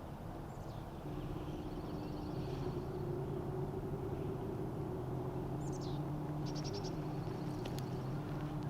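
Small songbirds chirping and trilling a few times, with a quick falling note and a fast trill near the middle. Under them runs a steady low drone that swells about a second in.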